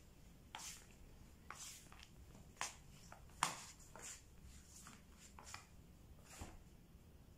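Faint scattered rustles and light clicks over quiet room tone, the sharpest about three and a half seconds in.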